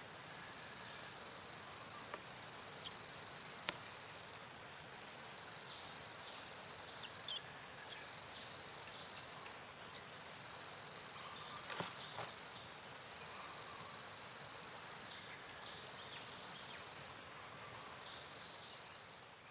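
Insect chorus, cricket-like: a steady high buzz with a pulsed trill that repeats about once a second.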